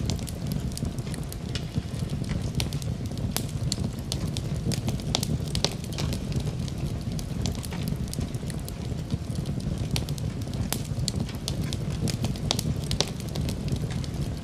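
Wood fire crackling in a fireplace: frequent sharp pops and snaps, irregularly spaced, over a steady low rumble of burning.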